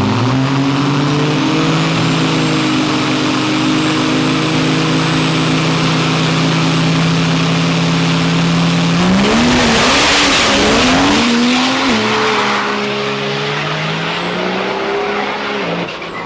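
Diesel drag-racing trucks holding their engines at steady revs with a high turbo whistle, then launching about nine seconds in with a loud surge of engine and tire noise that fades as they run away down the track.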